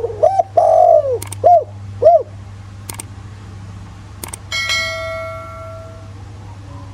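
Spotted dove cooing: a phrase of five rounded, hollow notes, the third drawn out. About four seconds in comes a click and then a bell-like metallic ring that fades away. A steady low hum lies underneath.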